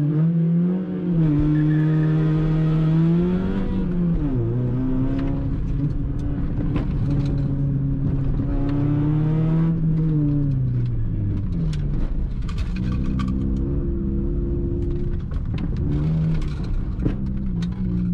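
Toyota Yaris engine heard from inside the cabin, driven hard through an autocross cone course. Its note repeatedly rises and falls, holding a pitch for a few seconds at a time, with a few short clicks.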